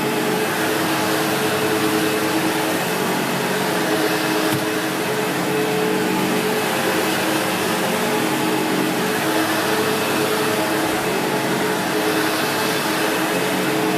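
Vacuum cleaner running steadily while vacuuming: a continuous motor whine with an even rush of air.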